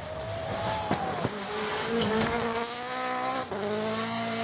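Rally car engine buzzing as it accelerates along the stage. Its pitch rises through a gear and drops at a gearshift about three and a half seconds in.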